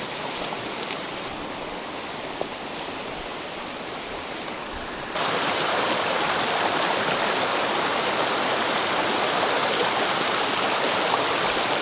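Rushing water of a mountain stream, a steady even noise that jumps abruptly louder and fuller about five seconds in.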